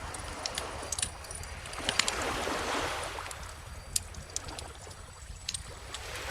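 Wood fire crackling with scattered sharp pops, over calm ocean waves washing in: one wave swells and fades in the middle, and the next begins near the end.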